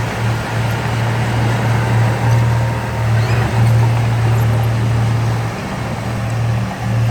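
Diesel engine of heavy earthmoving machinery running under steady load, a deep constant drone with a rough mechanical rumble, dipping briefly about two-thirds of the way through.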